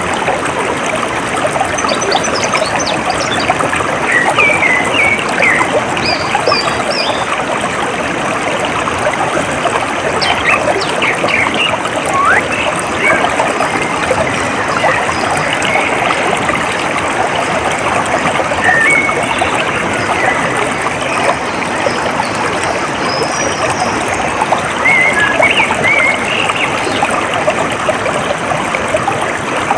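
Water trickling and flowing steadily, with short bird chirps scattered throughout.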